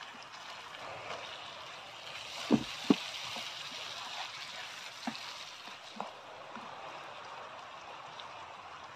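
Onion and tomato masala sizzling steadily in a frying pan as a wooden spatula stirs it. Two loud knocks come about two and a half and three seconds in, followed by a few lighter taps.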